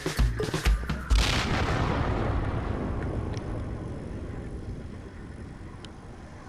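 A band's song ending: a last loud accented hit about a second in, then the ringing dies away slowly over several seconds.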